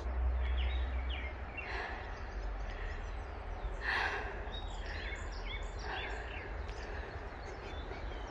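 Woodland birds calling, many short high chirping notes repeated throughout, over a low wind rumble on the microphone that is strongest in the first second. A couple of brief rustles, about two and four seconds in.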